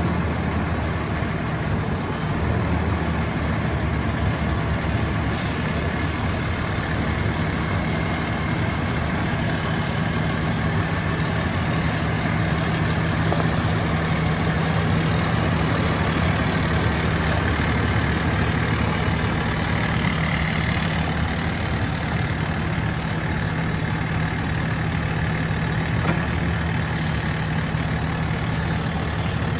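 Cummins ISX diesel engine of a 2008 Peterbilt roll-off truck idling steadily, with an even low hum that does not rise or fall.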